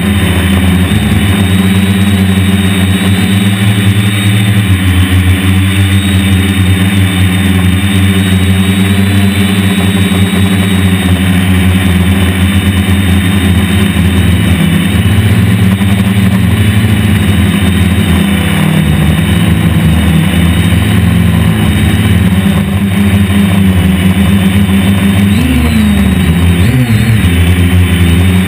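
DJI F450 Flame Wheel quadcopter's electric motors and propellers humming steadily, with wind noise behind; near the end the pitch wavers up and down as the motors change speed.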